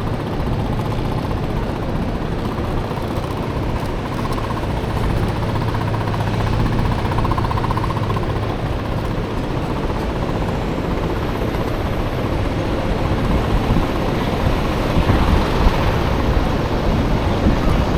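Honda Motocompo mini scooter with a swapped-in Honda Dio engine running steadily while being ridden, mixed with road and wind noise. A few short louder peaks come near the end.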